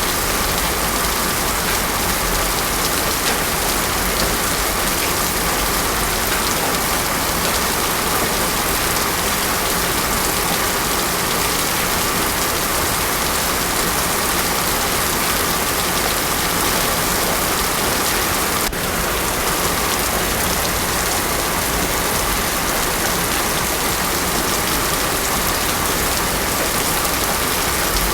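Heavy rain pouring steadily onto a road, an even hiss with no thunder.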